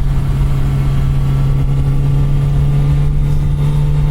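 2024 Kawasaki Z900RS Cafe's inline-four engine running at a steady pitch as the motorcycle cruises, with low wind rumble underneath.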